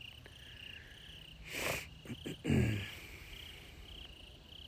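Crickets chirping steadily in a rhythmic pulse, a few chirps a second. About halfway through, a person breathes out audibly, then makes a short low voiced sound that falls in pitch.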